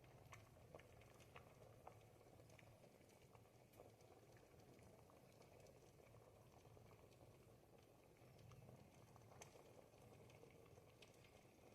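Ribollita, a thick Tuscan bread-and-vegetable soup, simmering in a pot: faint bubbling with many soft, scattered pops.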